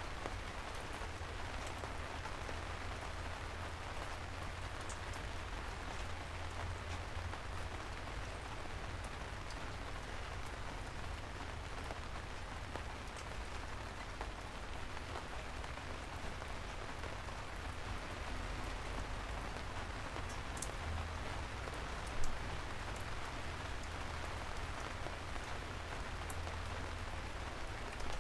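Steady rain falling, an even hiss with scattered individual drops ticking, and one sharper, louder tap about three quarters of the way through.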